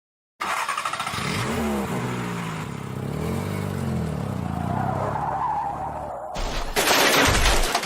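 Car engine revving up and down with tyres squealing in a skid, ending in a loud, harsh burst of crash noise near the end that cuts off suddenly: a car-accident sound effect.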